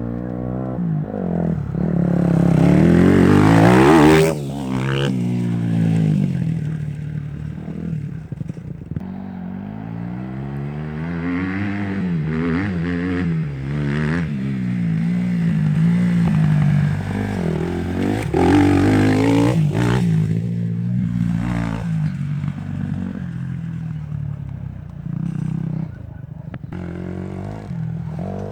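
Husqvarna TE 250 single-cylinder four-stroke dirt bike engine being ridden, its revs rising and falling with the throttle. It revs hardest about four seconds in before the throttle is chopped, and again near the middle.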